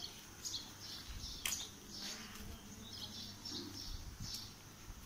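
Small birds chirping, short high calls coming in clusters about two or three times a second, over a faint low rumble, with one sharp click about one and a half seconds in.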